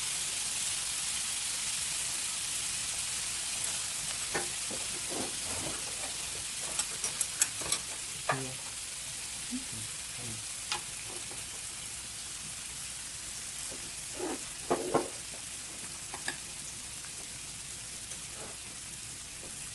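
Beef and shrimp sizzling steadily on a hot grill pan, the sizzle easing slightly over time. Occasional sharp clicks and knocks from utensils against the pan sound over it, a cluster about halfway through and a couple more later.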